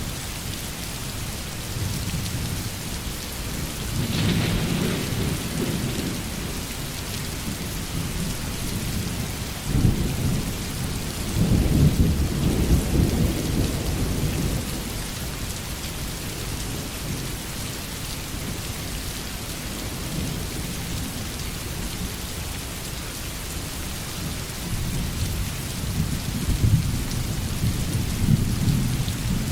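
Heavy rain falling steadily, with rolls of thunder rumbling: one about four seconds in, a louder, longer one from about ten to fifteen seconds, and another near the end.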